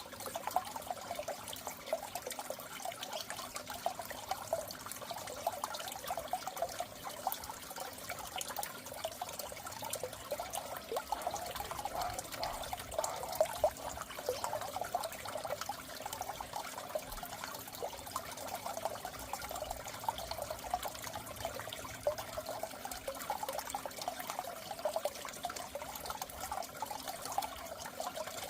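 Steady trickling, bubbling water in a goldfish aquarium, a dense patter of small splashes without a break.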